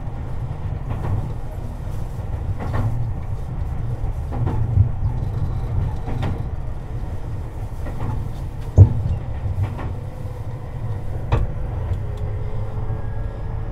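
Tobu 50090 series electric train running, heard from beneath the car floor: a steady low rumble with the wheels clicking over rail joints every second or two. One sharp, louder knock comes about two-thirds of the way through, and a faint rising whine begins near the end.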